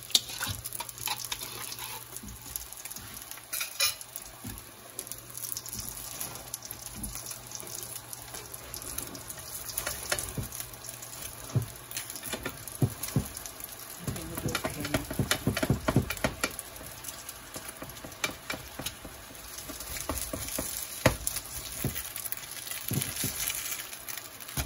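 Vegan mock duck frying in hot oil in a pan, sizzling steadily with scattered crackles and pops, thickest a little past the middle. The pan is running rather hot.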